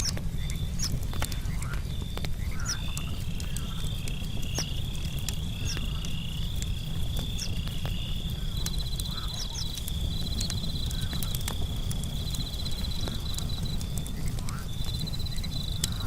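Night chorus of insects chirping steadily in a high pitch, with a second pulsing chirp joining in and out, and frogs calling. Scattered sharp crackles of a wood campfire sound through it over a low steady rumble.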